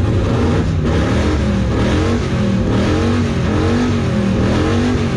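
A car's engine with a loud exhaust revved at a standstill in quick repeated blips, the pitch rising and falling about one and a half times a second, to show off the exhaust's volume. Someone nearby calls it so loud and crazy loud.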